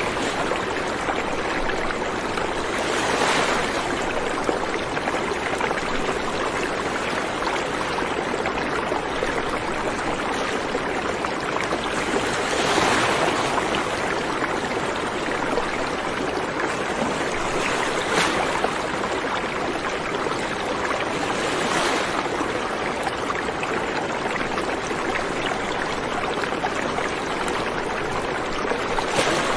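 A stream of running water flowing steadily, with a few brief louder swells every several seconds.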